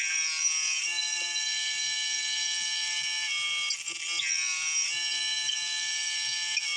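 Gas-powered saw engine running at high revs while cutting firewood. Its pitch drops a little about a second in and sags again around the middle as the saw loads up in the cut, then climbs back.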